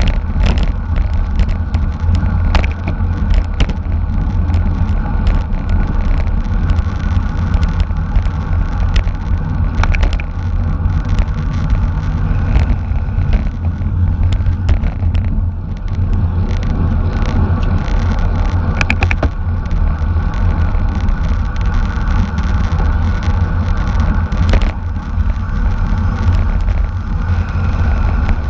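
Wind rush over a bike-mounted camera's microphone during a bicycle race, a loud steady low rumble, with road and drivetrain noise and a few scattered clicks.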